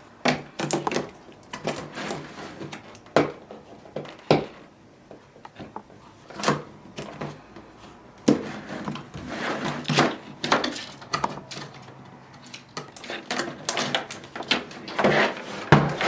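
Opening and handling the product's packaging box by hand: scattered knocks and clicks with stretches of scraping and rustling as the box is opened and its contents are taken out.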